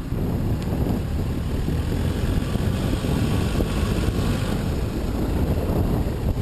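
Wind buffeting the microphone of a moving camera while riding into a headwind: a dense, steady low rumble. A higher hiss swells and fades about three to four seconds in.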